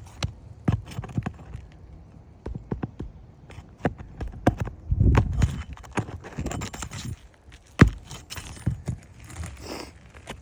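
Irregular knocks, taps and scuffs of work on a shingle roof, with one sharp knock about eight seconds in.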